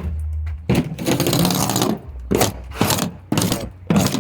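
Hand scraping to prep a surface for paint: one long stroke, then quick back-and-forth strokes about two to three a second.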